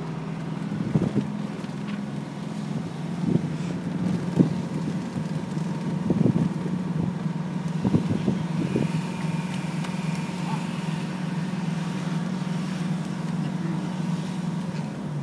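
1971 Mercedes-Benz 280 SE 3.5's V8 engine running at a steady pitch, heard from inside the cabin, with several sharp knocks and rattles over the first half.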